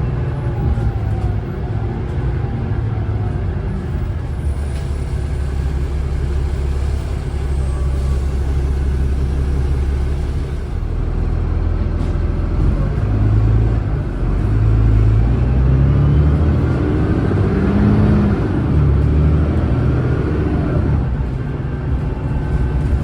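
Cummins ISLe diesel engine of an Alexander Dennis Enviro500 double-decker bus running under way. It drops back briefly about eleven seconds in, then runs louder from about fourteen seconds, with the engine note rising and falling as the bus accelerates.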